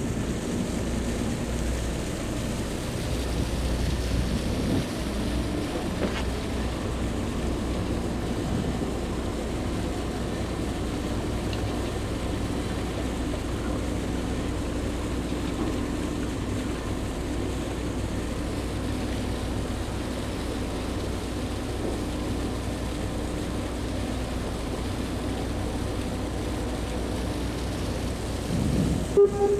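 Steady drone of the high-speed ferry Sun Liner 2's engines, heard on board while under way, with a low hum and a constant rush of noise. A brief louder tone sounds just before the end.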